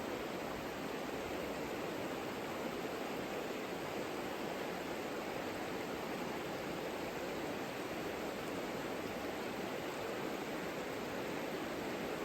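The Savica river flowing: a steady, even rush of water with no breaks.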